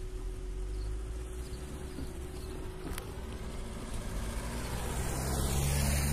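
A road vehicle approaching and passing close by, its tyre and engine noise building steadily to a peak near the end and then starting to fade.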